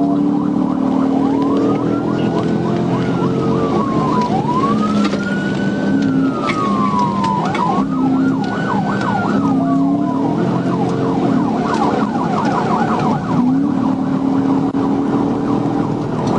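Police car siren sounding three slow wailing rises and falls, then switching to a fast yelp about two thirds of the way through, over the steady drone of the pursuing cruiser's engine and road noise.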